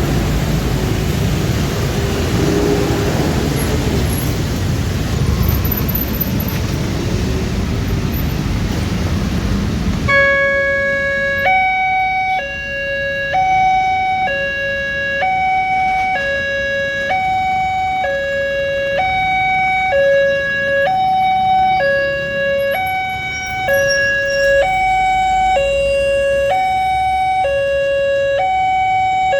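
Road vehicle noise, then, about a third of the way in, an automatic railway level-crossing alarm starts: an electronic two-tone warning alternating between a lower and a higher note about once a second, signalling that a train is approaching.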